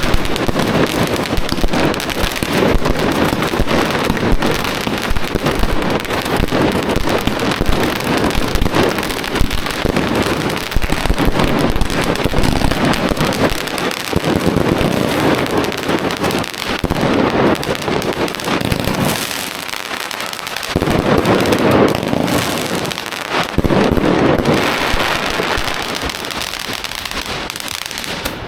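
Fireworks going off in a dense, continuous crackle of many overlapping small bangs, easing off in the last few seconds.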